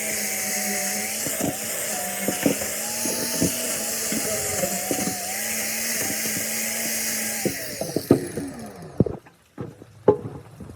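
A small motor running steadily, then switched off about seven and a half seconds in and winding down in pitch, followed by a few sharp clicks.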